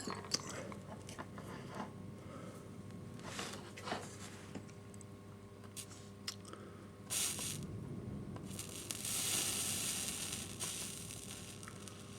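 Small clicks and taps of handling at the track, then liquid flux and solder sizzling under a soldering iron on an N gauge rail: a short hiss about seven seconds in, then a longer, louder hiss that fades out.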